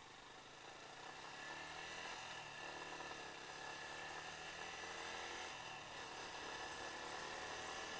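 Yamaha Y15ZR 150 cc single-cylinder engine pulling under acceleration, its note building over the first couple of seconds and then running on steadily, with wind noise. The owner says the bike's clutch plates are worn out.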